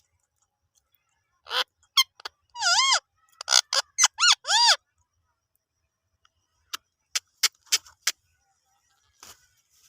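Pet parrot calling: a run of loud, shrill screeches, some with a wavering pitch, then a row of short, sharp chirps about seven to eight seconds in.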